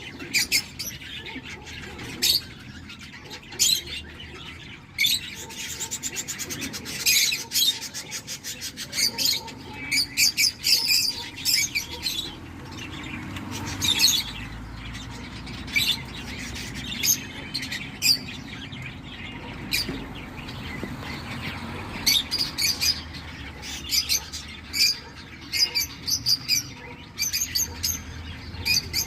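Cockatiel chicks in the nest calling, with repeated short chirps coming in quick bursts and fast pulsing runs.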